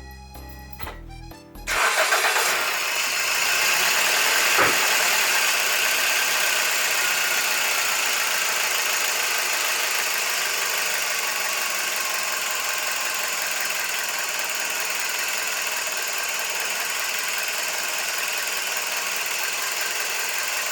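Toyota Vitz turbo engine, its oil freshly dosed with a molybdenum disulfide additive, starting about a second and a half in after some music, then settling into a steady idle, its pitch easing down over the next few seconds. A single sharp click about four and a half seconds in.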